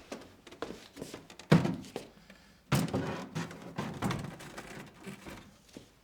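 A series of thuds and knocks in a small room. The loudest comes about one and a half seconds in, another strong one just under three seconds in, and several smaller knocks follow.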